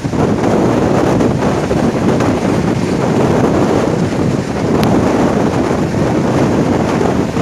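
Loud, steady rush of wind on the microphone over the running noise of a moving passenger train.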